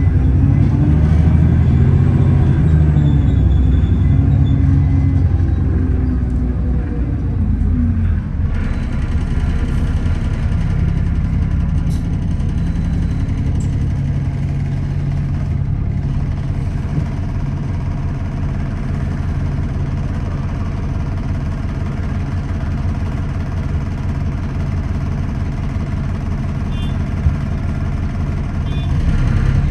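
Alexander Dennis Enviro400 double-decker bus heard from inside, its engine and drivetrain running with a heavy low rumble. Over the first several seconds the pitch rises and falls as the bus pulls through its gears. The sound then settles to steady running, and near the end it starts to rise again.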